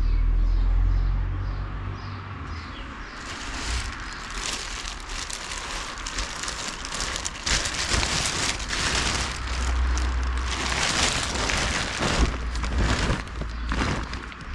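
Rustling and crackling of clothes and bags being handled and sorted through, in irregular bursts, with a low rumble in the first couple of seconds.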